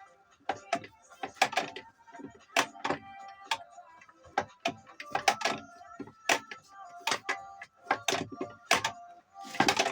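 Metal engine parts knocking and clinking as they are handled and turned by hand: a dozen or more sharp knocks at irregular intervals, some ringing on briefly, with a denser cluster near the end.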